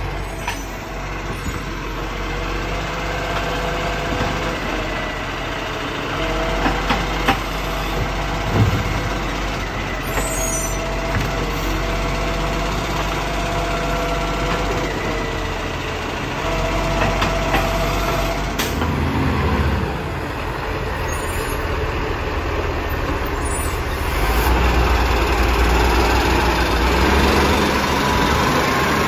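Recycling garbage truck running, with a whine that comes and goes and a few knocks, about one clear knock near the middle. The engine grows louder over the last few seconds.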